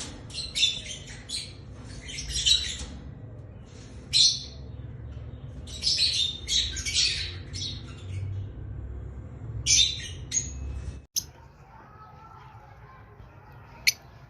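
Lovebirds squawking and chirping in shrill bursts over a low rumble. About eleven seconds in the sound cuts off abruptly, leaving a quieter stretch with two short sharp chirps near the end.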